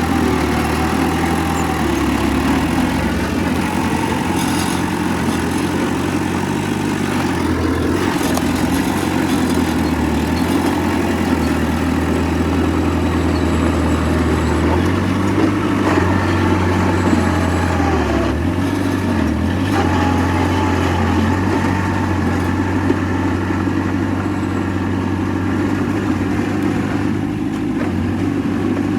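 Heavy diesel earthmoving machinery running steadily, a low engine drone throughout, with a few brief knocks.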